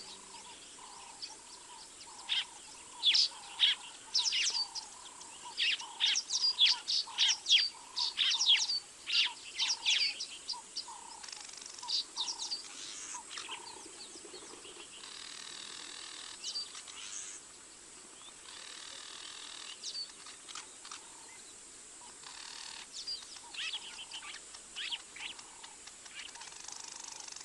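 Wild birds calling: a dense run of quick high chirps and whistles over a steady series of lower repeated notes about two a second, busiest in the first half and thinning out towards the end.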